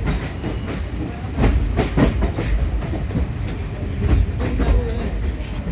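Passenger train running at speed, heard from inside a coach: a steady low rumble with irregular clacks and knocks as the wheels pass over rail joints.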